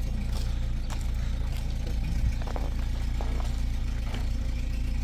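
A vehicle engine running steadily with a low, even drone, with a few light clicks and rattles over it.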